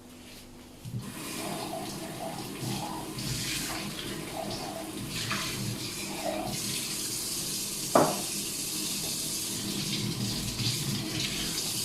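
Water running from a kitchen tap, switched on about a second in and shut off at the end, with a single knock about eight seconds in.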